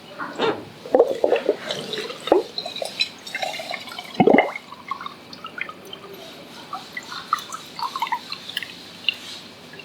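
Water gurgling and dripping as a toy is filled, with a scatter of short irregular blips and clicks and a louder burst about four seconds in.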